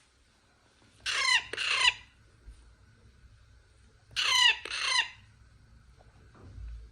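Parrot chick screeching: two pairs of loud, harsh squawks, the first about a second in and the second about four seconds in.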